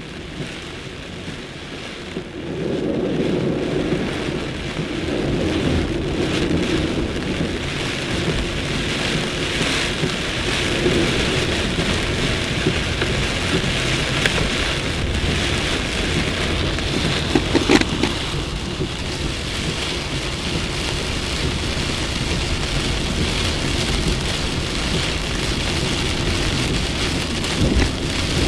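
Heavy thunderstorm rain pouring down steadily, swelling a couple of seconds in, with thunder rumbling and one sharp crack a little past halfway.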